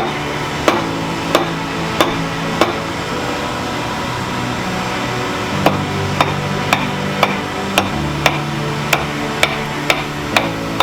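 Blacksmith's hammer striking metal on an anvil, hand forging: sharp ringing blows about twice a second, four at first, then a pause of about three seconds, then a steady run of blows.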